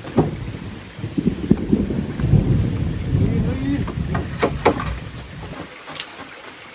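A roll of thunder rumbling deep and low, swelling and then dying away a little over five seconds in, over the steady hiss of heavy rain. Several sharp knocks come through it.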